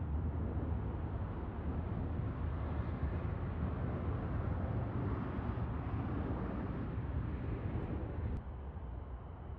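Steady low rumble of jet airliner engines, dropping abruptly in level after a sharp click about eight seconds in.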